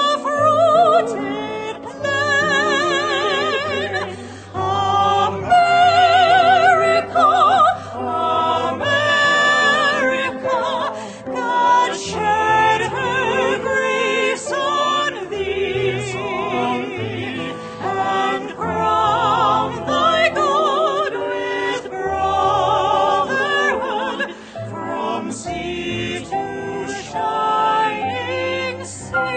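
Classical-style singing with strong vibrato over instrumental accompaniment with a moving bass line.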